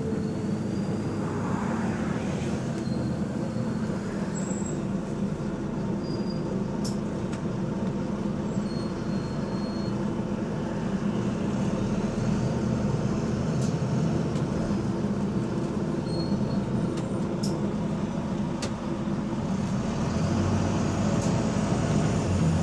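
Bus engine running steadily under way, with a slight exhaust leak.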